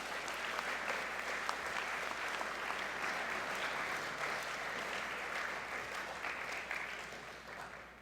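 Audience applauding steadily, many hands clapping at once, fading away near the end.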